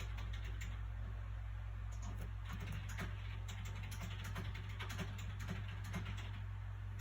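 Paper sounds from handling a book's pages: a run of soft crinkles and small taps, busiest in the middle. A steady low background hum runs underneath.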